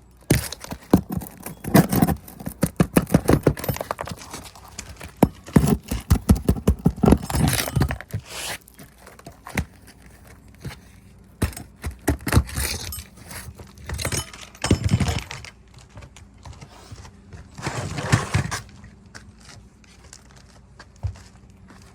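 Roofing nails being pried out from under asphalt shingles: a metal tool scraping and clicking against nails and shingle in several bursts, with quieter pauses between.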